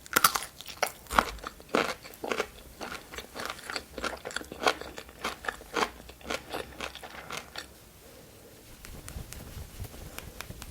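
Close-miked crunchy chewing and biting of food, dense crackly crunches that die down about three-quarters of the way through.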